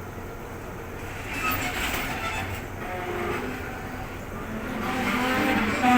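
Diesel locomotive running during shunting, its engine noise swelling and growing louder from about a second in.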